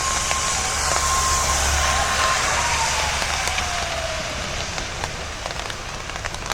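Jerusalem Light Rail tram slowing down, its electric drive whine holding steady and then falling in pitch as it brakes, with a low rumble. A steady hiss of rain on the wet street runs underneath.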